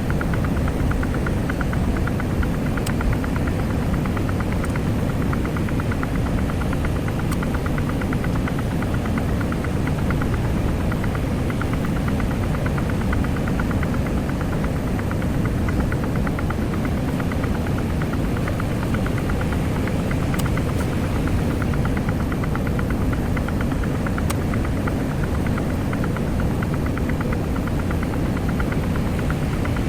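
Semi-truck engine running steadily, with a fine even rhythm over a low rumble of road noise.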